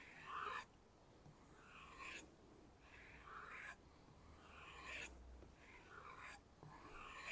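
Knife blade drawn in light strokes along a kangaroo tail leather strop, a faint swishing rub repeated about six times, roughly one stroke a second.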